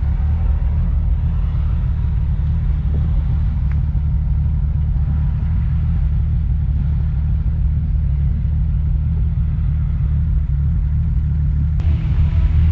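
A 1994 Nissan Skyline R33's turbocharged 2.5-litre RB25DET inline-six running with a steady low rumble. The sound gets louder and brighter near the end.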